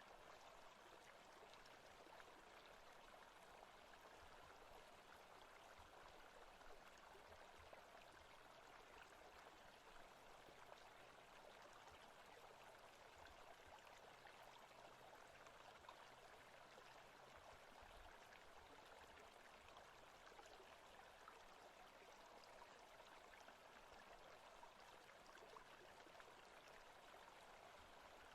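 Faint, steady running water, like a stream, from a forest-ambience sound track.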